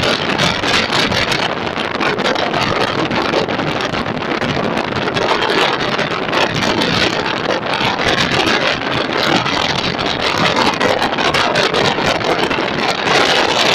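Express passenger train passing at speed: a steady rush of wheels on the rails and coaches going by, with wind buffeting the microphone.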